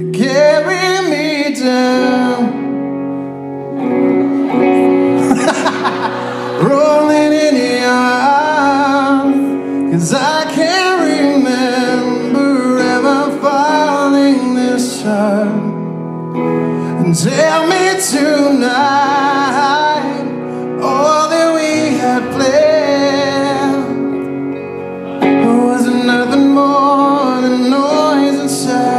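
Live solo performance of a slow ballad: a male singer holding long notes with vibrato over sustained accompaniment chords.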